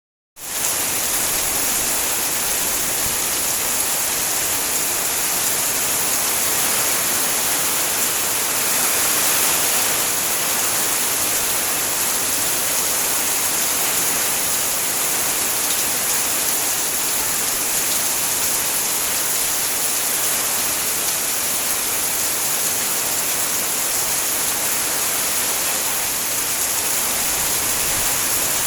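Heavy rain pouring down steadily: a dense, even hiss that swells slightly about nine seconds in.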